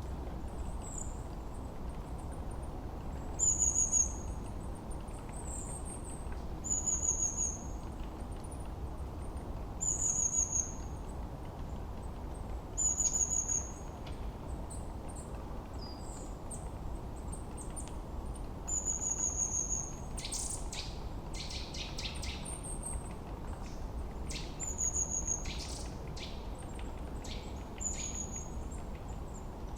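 Forest birdsong: a bird repeats a short, high call about every three seconds over a steady low background noise. From about twenty seconds in, a quick run of sharp ticking chips joins in.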